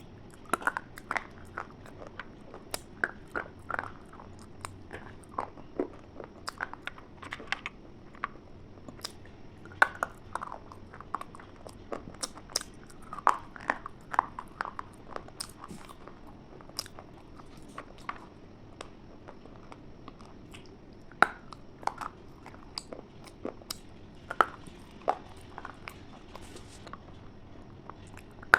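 Someone biting and chewing a crunchy food close to the microphone: many sharp, irregular crunches that come in quick clusters, with short pauses between.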